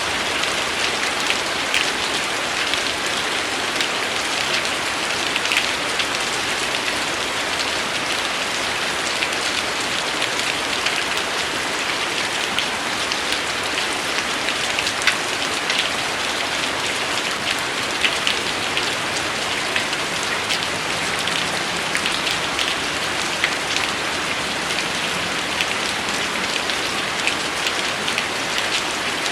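Steady rain falling on a surface: an even hiss with many small, sharp drop ticks scattered through it.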